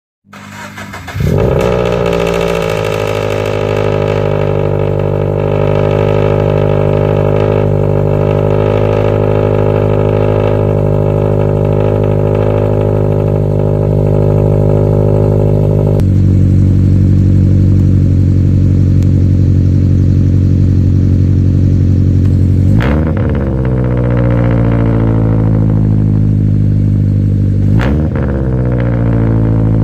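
Cold start of a 2013 Scion FR-S's 2.0-litre flat-four boxer engine through a catless header and front pipe and an aftermarket cat-back exhaust: it cranks briefly, catches about a second in and runs at a raised cold idle. About halfway through the idle steps down to a lower pitch, and near the end the engine is blipped twice, each rev rising and falling quickly.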